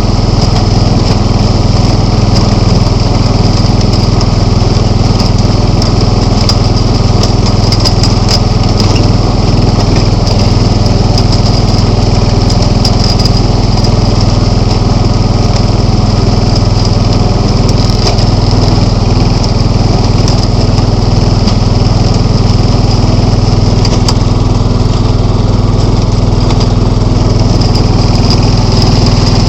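John Deere 265 lawn tractor engine running steadily at working speed while the tractor pushes a plow through snow.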